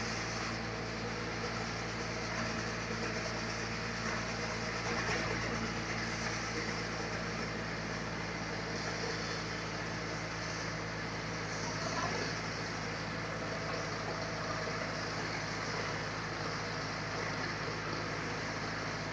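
Sawmill machinery running steadily with an even, engine-like hum and no change in pitch.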